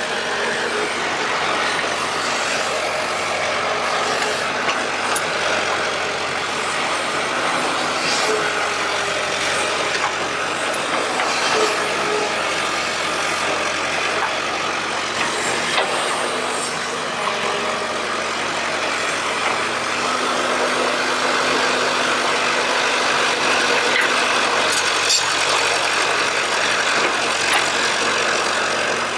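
Excavator running steadily while it digs, with scattered light knocks and clicks over the engine sound.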